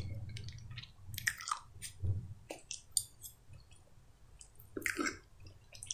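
Close-miked chewing of a mouthful of soft mashed potato, with scattered small wet mouth clicks and smacks.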